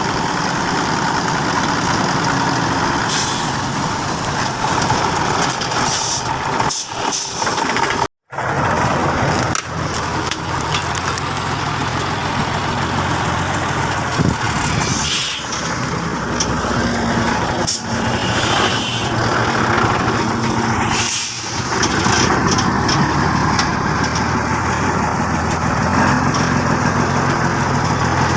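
Heavy logging truck engines running under load, with several short hisses along the way.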